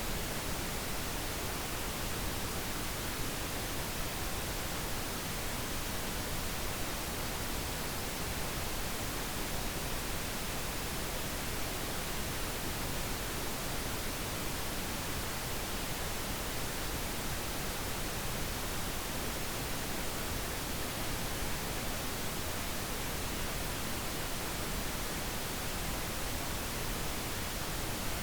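Steady, unbroken pink noise: an even hiss spread across the whole range, with no change or events.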